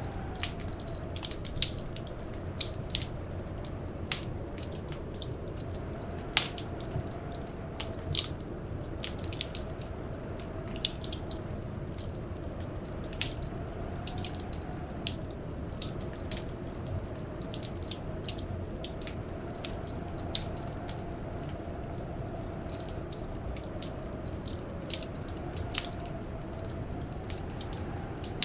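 Wood fire crackling in a fireplace: irregular sharp pops and snaps, several a second, over a steady low rumble of flame. Behind it runs a faint, slowly wavering howl of blizzard wind.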